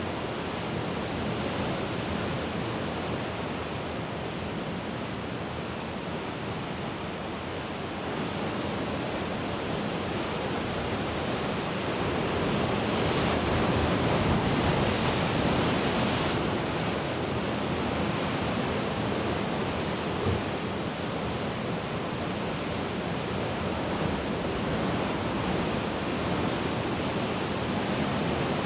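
Mediterranean sea waves washing against the shore in a steady rush, swelling louder about midway as a bigger wave comes in and breaks.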